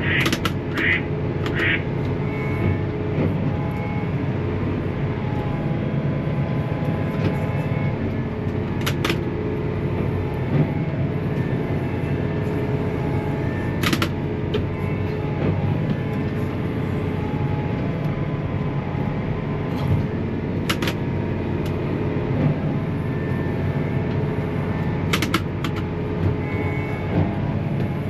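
Large John Deere tractor's diesel engine running at a steady speed, with a few short sharp clicks over it.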